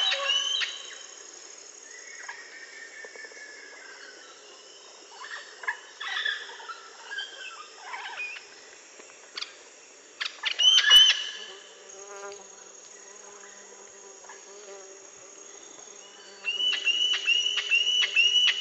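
Birds in an aviary chirping and calling in scattered bursts, ending in a quick run of repeated sharp chirps, about four a second. Under them runs a steady high-pitched buzz like insects.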